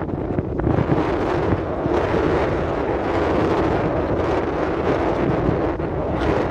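Strong wind buffeting the microphone: a steady, loud rumbling noise with gusts.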